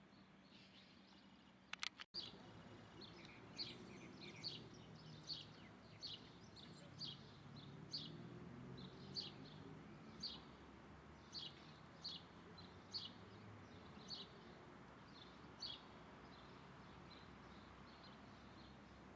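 A bird repeating short, high chirps about once a second over a faint outdoor background, after a few sharp clicks near the start.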